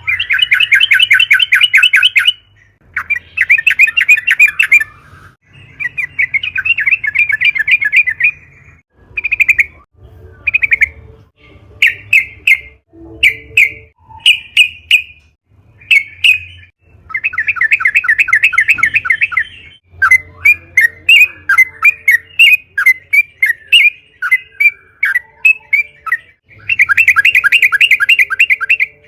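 Yellow-vented bulbul (trucukan) calling: runs of fast chattering trills two to three seconds long, broken in the middle by a string of short single notes and a looser chatter, then a last long trill near the end.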